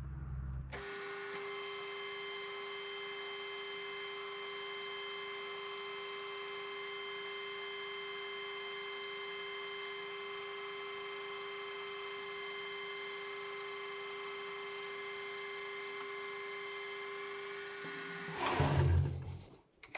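Metal lathe turning down a sleeve blank for a diff yoke's seal surface, running a cut with a steady, even whine that starts about a second in and stops shortly before the end.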